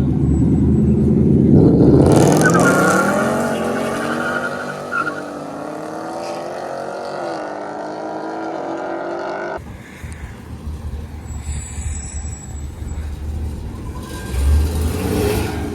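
A car engine under hard acceleration: a low rumble that climbs steeply in pitch about two seconds in and holds high with small wavers, then cuts off suddenly, leaving a lower engine rumble that swells briefly near the end.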